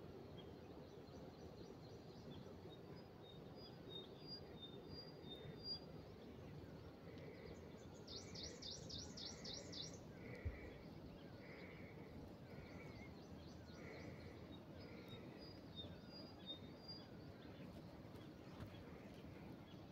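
Faint birdsong over a low steady hiss: scattered high chirps, a quick rattling trill about eight seconds in, and a mid-pitched call repeated roughly every two-thirds of a second through the middle.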